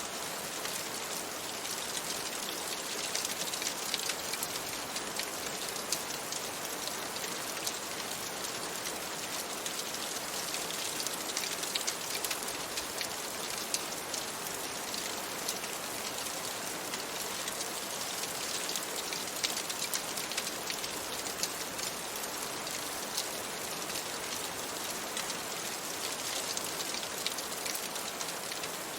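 Steady rain on a window, with frequent small sharp ticks scattered through the constant hiss.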